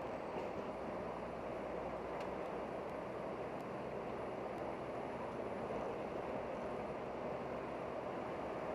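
Steady rumble of a train running, consistent with the Channel Tunnel truck shuttle on the move.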